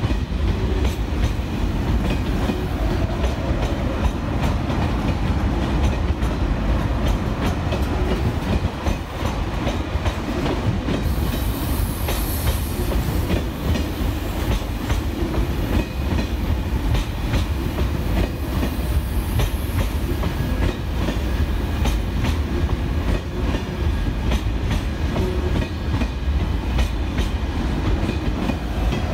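A train rolling along the track, its wheels clicking steadily over rail joints above a continuous low rumble.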